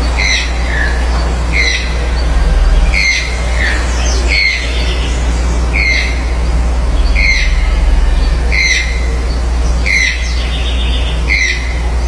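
A toucan calling: a short, harsh croak repeated at an even pace, about once every one and a half seconds.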